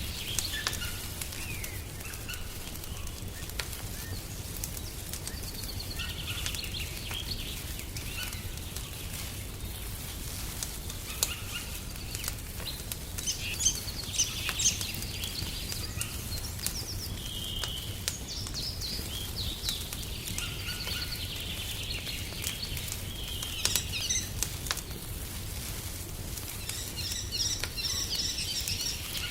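Wood fire crackling in a fireplace, with frequent small sharp pops, under birds chirping and trilling throughout, and a low steady rumble underneath.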